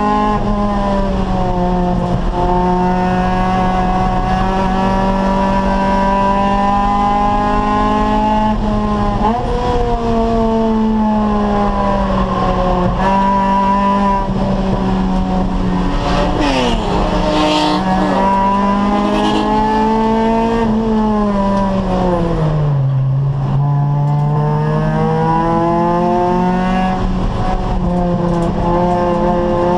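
Acura Integra Type R's VTEC four-cylinder engine running hard at high revs under racing, its pitch dipping and climbing with gear changes. Tires squeal briefly about two-thirds of the way through. Near the end the revs fall off, then build again.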